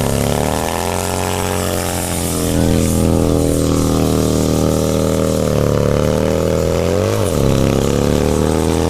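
Motorcycle engine running at high revs, its pitch holding steady with small swells, then dropping sharply and climbing back about seven seconds in as the throttle is blipped.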